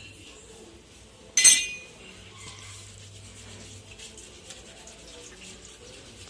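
A single sharp metallic clank with a brief ring about one and a half seconds in, then faint scattered light knocks: dismantled air-compressor parts being handled and set down.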